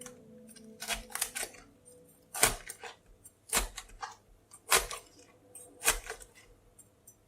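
A series of short, sharp clicks or taps, the strongest about once a second, with smaller ones between.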